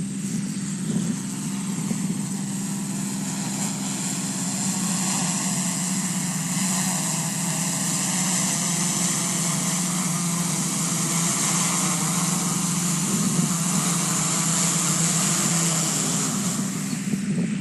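Camera drone's propellers humming steadily, slowly getting louder over the stretch.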